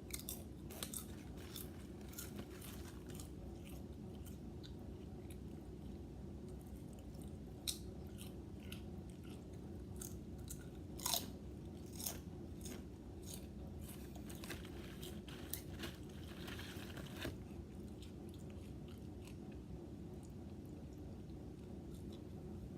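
Potato chips crunched and chewed close to the microphone: irregular crisp crackles, busiest in the middle, over a steady low background hum.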